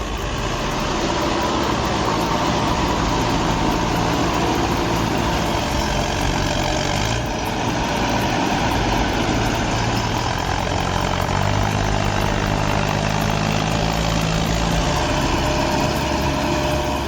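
Farm tractor's diesel engine running steadily and hard under load, with a sudden change in the sound's character about seven seconds in.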